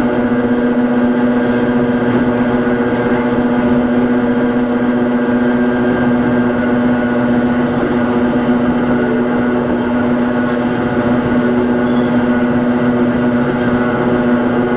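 Hakone Tozan Railway Moha 1 No. 106 electric railcar, with nose-suspended drive and SE121-A traction motors, heard on board: a steady hum at one constant pitch with overtones that does not rise or fall.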